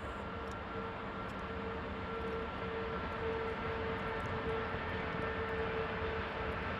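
A machine's engine running steadily, with a steady whine over the drone. It grows slightly louder about three seconds in.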